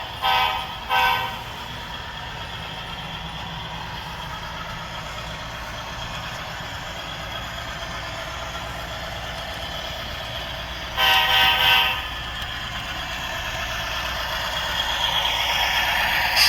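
HO scale model diesel locomotive's sound decoder playing its horn through the small onboard speaker: two short blasts at the start and a longer, broken blast about eleven seconds in, over a steady diesel engine hum and running noise that grows louder near the end.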